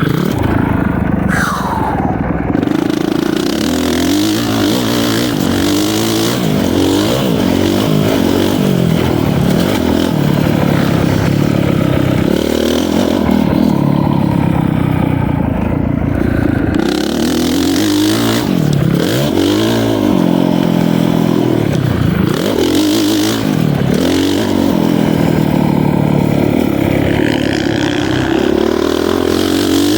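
Honda CRF450R four-stroke single-cylinder dirt bike engine being ridden hard. The revs climb and drop over and over as the throttle is opened and chopped.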